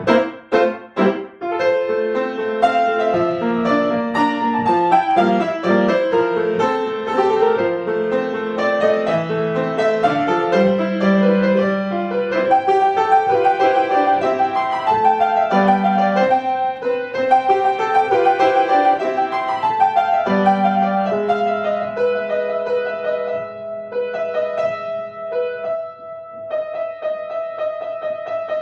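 Piano playing a piece: a moving melody over held bass notes, with a few short, detached chords in the first second or so.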